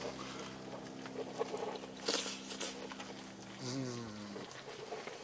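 Irregular light crackling and popping from a wood campfire with food cooking over it. About three and a half seconds in there is a brief low vocal sound that falls in pitch.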